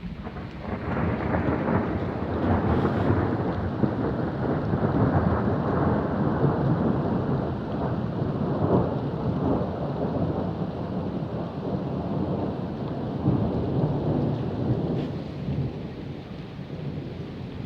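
A long roll of thunder: it builds quickly about a second in and rumbles on for many seconds, easing off near the end, over steady rain.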